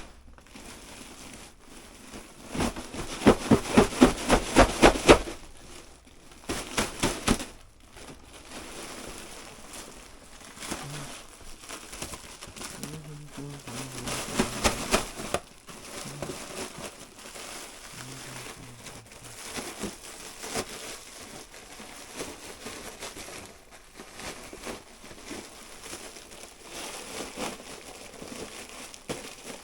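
Insulated flexible air duct being handled and pulled apart: its plastic jacket and fiberglass crinkle and crackle. The loudest part is a run of quick rasping pulses, about four a second, from about three to five seconds in. Shorter bursts follow around seven and fifteen seconds.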